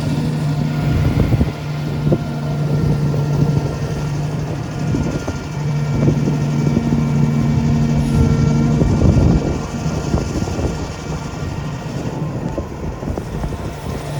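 Hitachi EX1900-6 excavator's Cummins diesel engine running, a steady low mechanical hum with higher whining overtones. It swells for stretches and eases off after about nine seconds.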